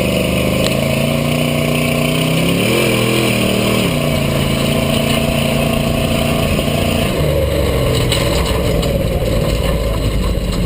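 Rock bouncer buggy's engine revving, holding a steady pitch with a brief up-and-down waver about three seconds in. About seven seconds in the steady note gives way to a rougher, noisier sound.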